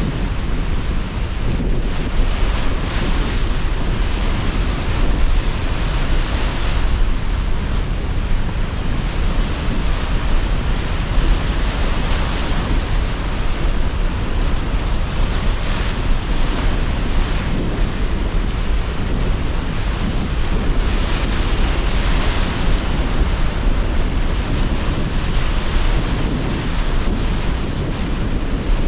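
Sea surf washing in waves under strong, gusting wind, with a heavy low wind rumble on the microphone.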